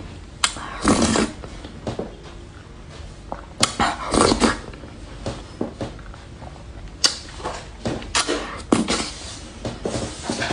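Close-miked eating sounds: several clusters of short crunchy bites and chewing, a few seconds apart.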